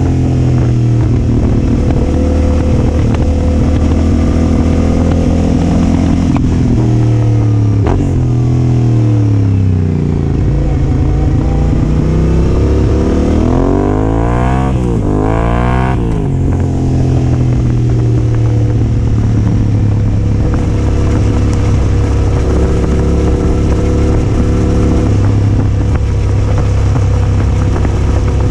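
Yamaha Ténéré 700's parallel-twin engine through a Yoshimura R-12 exhaust under way, its pitch falling and rising through gear changes, with a quick rev up and back down about halfway through, then running steadier near the end.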